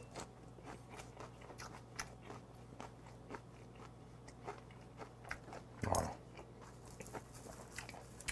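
Close-up chewing of a gwamegi wrap (half-dried saury in dried laver with scallion): soft crunching and small wet clicks of the mouth, with one louder mouth sound about six seconds in.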